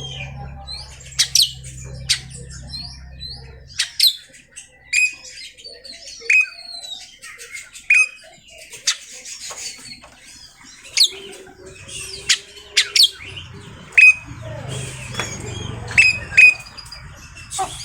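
Oriental magpie-robin (kacer) singing a varied, energetic song of sharp chirps, short falling whistles and clipped loud notes, the kind of song played to provoke a quiet kacer into singing. A low hum runs underneath during the first few seconds and again later on.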